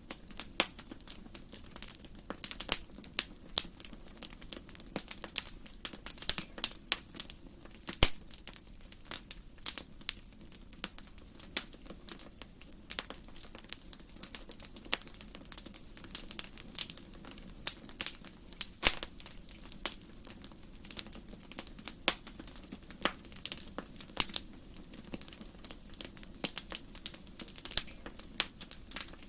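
Wood fire burning in a fireplace, crackling and popping irregularly over a low steady hiss, with a sharper pop about eight seconds in.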